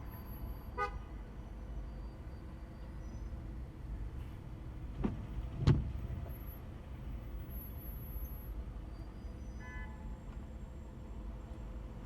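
Steady low rumble of a car driving in slow city traffic on wet roads, with short car horn toots from nearby traffic about a second in and again near ten seconds. Two thumps come around the middle, the second the loudest sound in the stretch.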